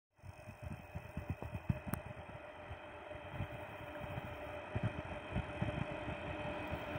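Freight train hauled by a 4ES5K 'Ermak' electric locomotive approaching unseen, heard as a faint steady whine that grows slowly louder, with irregular low thumps underneath.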